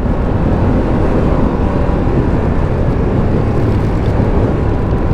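Steady wind rush on the helmet microphone of a moving motorcycle, with engine and road noise underneath.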